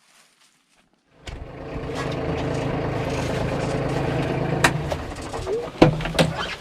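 Compact tractor's diesel engine running steadily, cutting in about a second in and easing off near the end, followed by a couple of sharp knocks.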